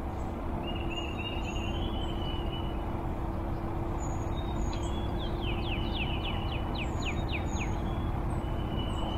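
Songbirds calling: a few short trills early, then a quick run of about nine down-slurred notes about five seconds in, over a steady low hum and rumble.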